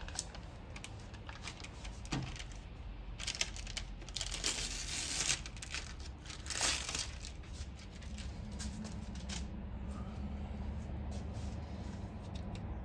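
Light clicks and knocks of hydraulic lifters and their retainers being handled as they are taken out of a Ford 3.8 V6, with a couple of longer scraping, rustling noises near the middle.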